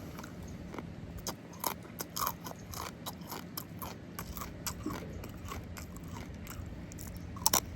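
A person chewing and biting food close to the microphone: a scattered run of short, sharp crunches and wet clicks.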